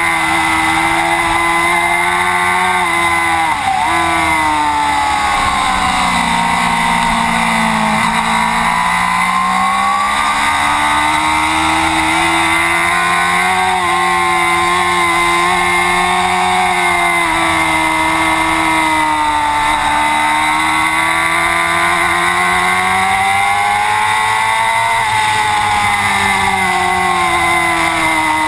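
Race motorcycle engine at high revs, its pitch dropping under braking and downshifts and climbing back under acceleration several times, with one sharp dip about four seconds in.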